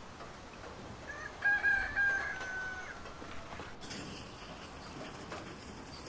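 A rooster crowing once, about a second in, one long call lasting nearly two seconds that holds its pitch and then sags slightly at the end.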